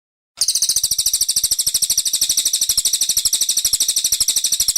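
Cililin coklat masteran song: a fast, even trill of high, sharp chirps at about a dozen notes a second. It starts abruptly about half a second in and runs unchanged.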